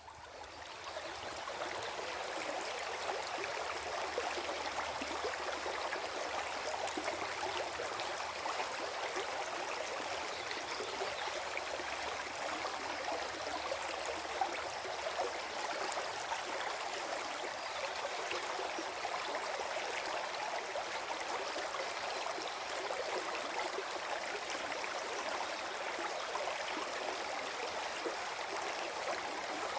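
Small forest stream gurgling and trickling over stones, a steady flow of water that fades in over the first second.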